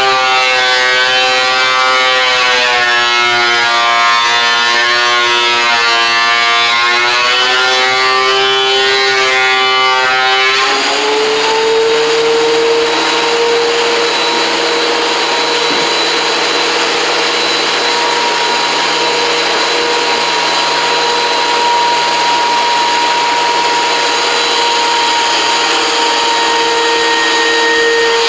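Electric motor of a woodworking power tool, a planer or table saw, cutting wood. Its pitch sits lower and wavers under the load of the cut, then about ten seconds in it rises to a steady, higher whine as the blade runs free, and near the end it drops and wavers again as the next cut begins.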